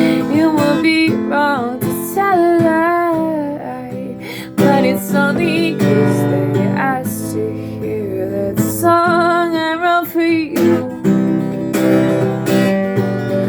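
Acoustic guitar strummed in steady chords with a voice singing long, wavering held notes over it.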